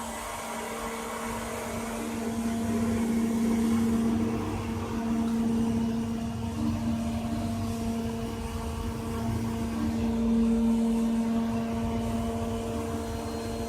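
4-axis CNC router running and cutting wood: a steady motor hum with a constant whine, swelling louder and easing off every few seconds.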